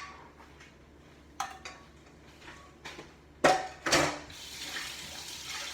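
Metal baking pans and utensils clanking a few times, the two loudest knocks about three and a half and four seconds in, followed by a steady hiss.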